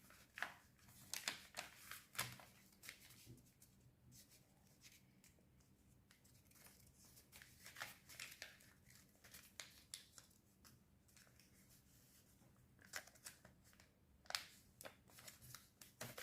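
Faint rustling and crinkling of a sheet of colour paper being folded and creased by hand, in scattered short bursts.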